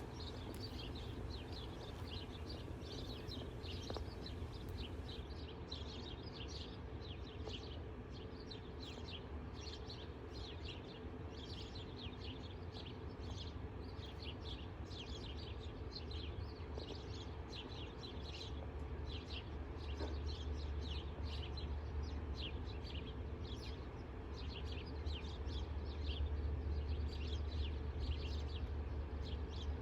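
Small birds chirping, many quick high chirps overlapping throughout, over a steady low hum that grows a little louder past the middle.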